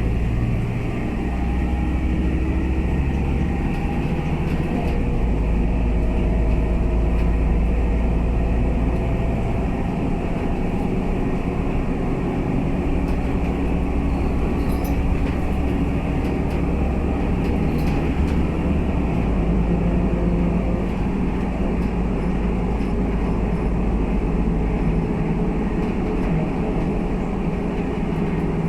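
Scania K320UA bus running, its low engine drone shifting in pitch and level several times. Faint rising tones sound over the first several seconds.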